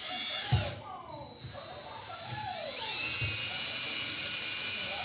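Power drill run with no load: a short high whine, then about three seconds in it spins up again with a rising pitch and runs at a steady high whine until it stops near the end. A short knock comes about half a second in.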